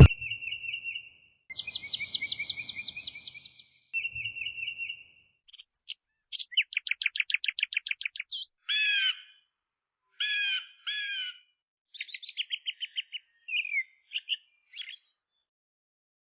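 Songbird singing: fast high trills and short repeated chirped phrases, with brief pauses between them, ending about 15 seconds in.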